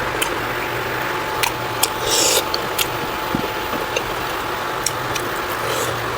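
Close-miked mukbang eating sounds: a person chewing, with scattered sharp mouth clicks and smacks and a brief louder noisy burst about two seconds in, over a steady hiss and low hum.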